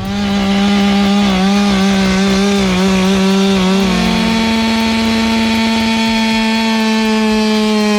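Two-stroke chainsaw running at high revs. Its pitch wavers under load for about four seconds as it cuts, then holds steady and slightly higher until it fades near the end.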